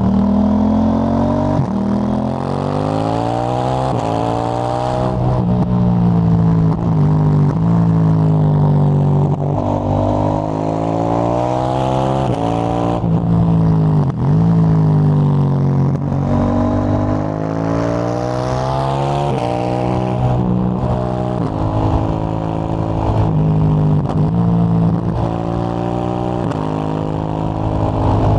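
KTM 890 Duke GP parallel-twin running through a Dominator HP8 slip-on exhaust with dB-killer, ridden hard. The engine note climbs in pitch and drops back several times as it pulls through the gears, with shorter, smaller rises and falls near the end.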